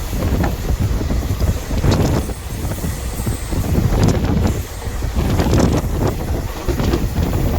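Passenger train running along the track: a steady low rumble with irregular knocks, and wind buffeting the microphone.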